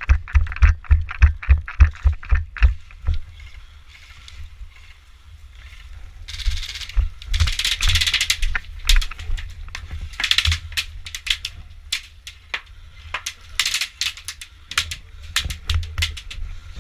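Footsteps and body movement close to a worn microphone: quick thumps about three or four a second for the first few seconds, then scattered rustling bursts. A low rumble of wind and handling noise runs underneath.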